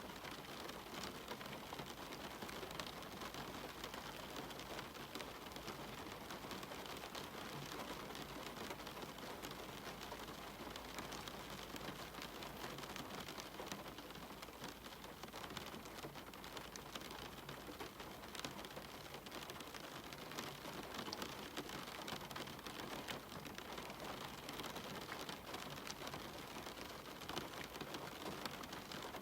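Steady rain falling, a dense even hiss with many small drops pattering on surfaces.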